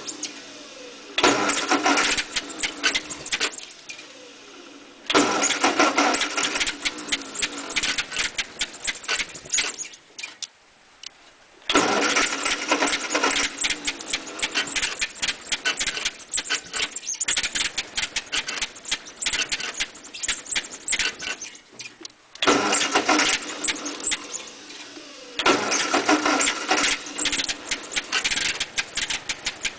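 1948 Ford 8N tractor's four-cylinder flathead engine being cranked by its 6-volt starter in repeated bursts of a few seconds each, with short pauses between, without catching: the engine is flooded.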